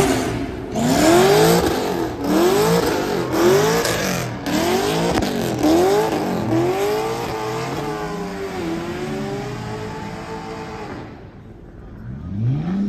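Car engine revved hard over and over, its pitch climbing about once a second, then held for a few seconds before it dies away near the end.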